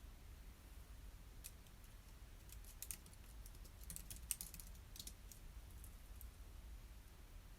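Light typing on a computer keyboard: faint, irregular key clicks, thickest in the middle, over a steady low room hum.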